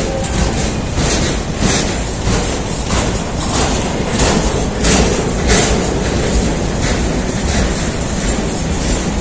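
Train running on the rails: a steady rumble with its wheels clicking over rail joints a dozen or so times in the first half, then a smoother rumble.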